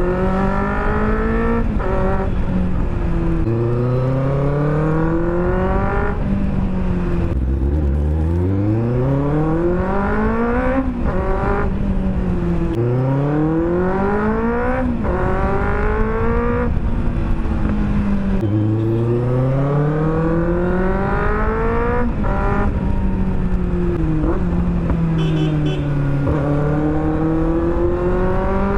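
Benelli 600 GT's inline-four engine on the road, revving up with its pitch climbing and dropping sharply at each upshift, then falling away as the throttle rolls off, over and over.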